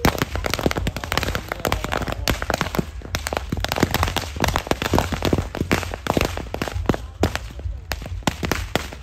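Fireworks and firecrackers going off in a dense, continuous volley of sharp bangs and crackles, many a second.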